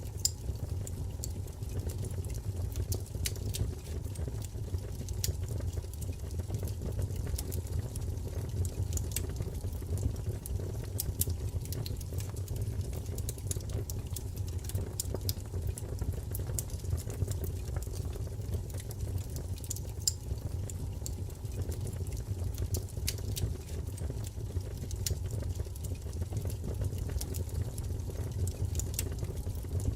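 Wood fire crackling in a fireplace: a steady low rumble of flames with frequent small, sharp pops and snaps at irregular moments.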